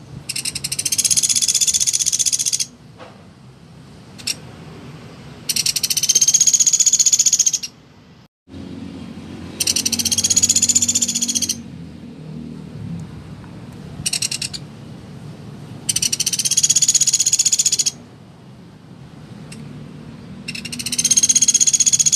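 Pelatuk beras, a small woodpecker, giving a high, fast rattling trill of about two seconds, five times, roughly every five seconds.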